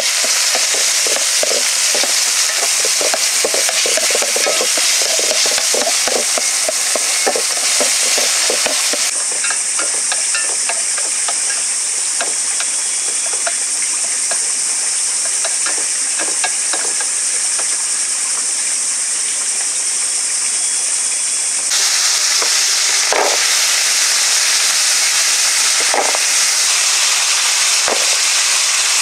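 Food sizzling and frying in a hot pan, a steady hiss dotted with crackles and the taps and scrapes of stirring. The hiss changes abruptly about a third of the way in and again about three quarters of the way through.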